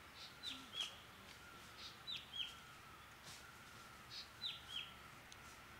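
A bird calling: a pair of short, high notes, each dropping sharply in pitch, repeated three times about two seconds apart. A fainter, lower repeated whistle runs underneath.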